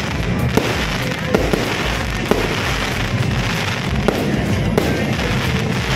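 Fireworks display: a steady, dense din of launches and bursting aerial shells, with sharp bangs going off at uneven moments, about one a second.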